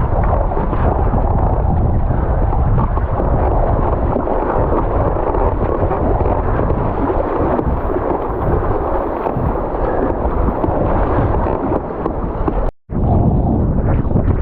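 Gale-force wind buffeting an action camera's microphone, a loud constant rumble over the rush of water on a surfski running downwind. The sound drops out for a moment near the end.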